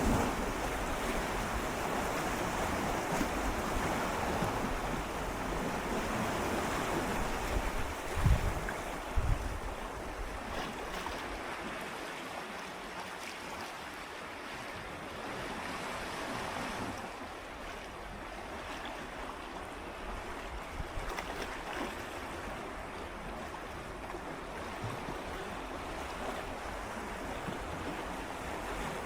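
Gentle sea waves swirling and lapping against shoreline rocks close by, a steady wash of water. It is fuller for the first third, with two brief low thumps around eight to nine seconds in, then softer as the water draws back.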